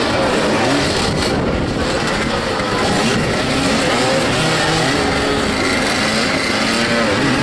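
Several motoball motorcycle engines revving up and down at once, their pitches rising and falling and overlapping.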